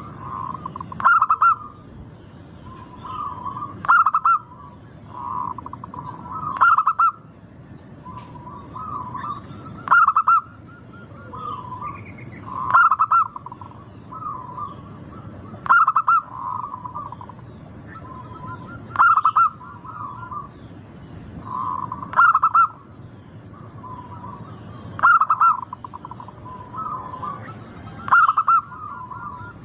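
Local perkutut (zebra dove) singing its cooing song. It repeats the same phrase about every three seconds, each ending in a loud, higher note, with softer coos in between.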